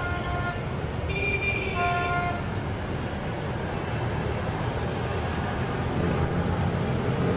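A vehicle horn sounding, a short blast at the start and a longer one from about one to two and a half seconds in, over the steady running of vehicle engines and traffic.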